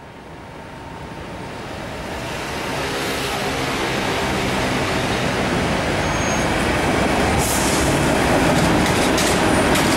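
Paris Métro train running, its rumble building steadily over the first few seconds and then holding, with a few sharp clacks near the end.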